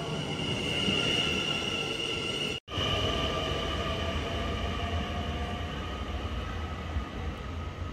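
Dutch NS passenger train running on the rails: a steady high-pitched whine over a low rumble. The sound cuts out for an instant about two and a half seconds in, then the whine carries on at a slightly lower pitch.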